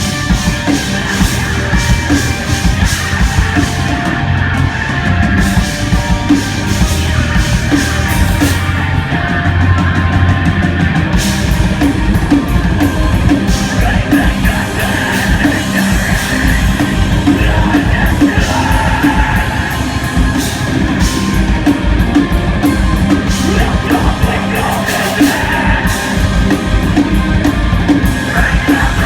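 Live hard rock band playing loud: distorted guitars, bass and drum kit, with a shouted vocal.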